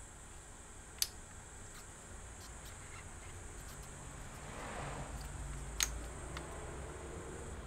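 Laptop parts being handled during reassembly: two sharp clicks, about a second in and near six seconds, a few fainter ticks and a brief soft rustle, over a faint steady hum.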